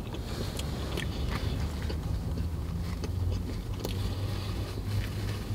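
A man chewing a mouthful of barbecue sandwich, with scattered small clicks and smacks from the mouth, over a steady low vehicle hum.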